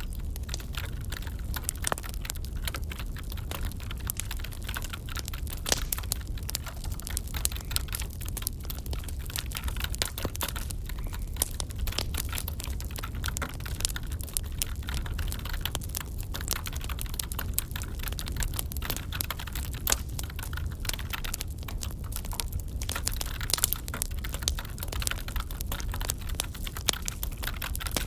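Wood fire crackling, with dense irregular snaps and pops over a steady low rumble.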